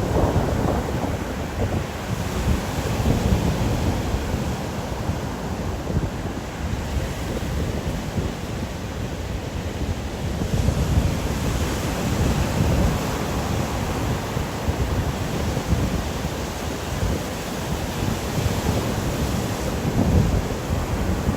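Storm soundscape of wind blowing in gusts over rain: a continuous rushing noise that swells low every several seconds, with a brighter hiss coming in about halfway through.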